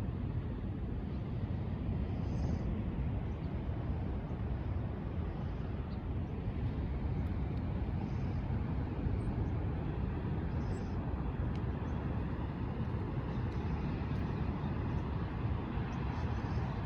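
Pacific Ocean surf, a steady low rumbling wash with no breaks.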